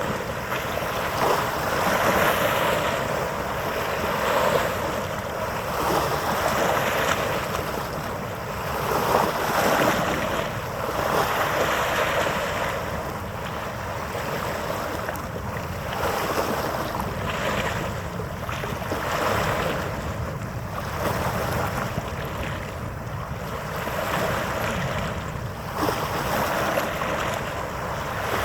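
Wind and water noise on an open harbour: a rushing hiss that swells and fades every couple of seconds, over a faint steady hum.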